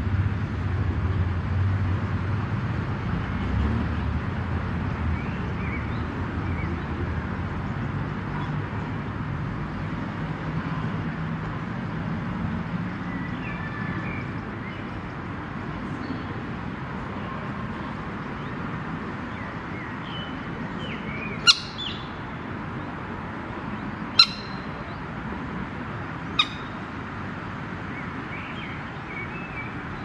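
Birds calling over a steady low background rumble: faint chirps, then three short, sharp calls about two to three seconds apart in the second half.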